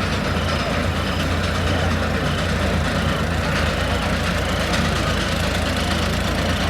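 Heavy engine running steadily with an even low hum and no changes in level.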